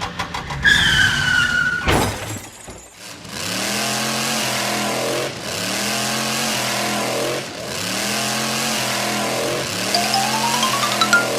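Cartoon sound effects: quick clicks, a falling whistle and a crash, then a looped car engine revving sound. Each rev rises and settles, repeating about every two seconds, with a rising whistle near the end.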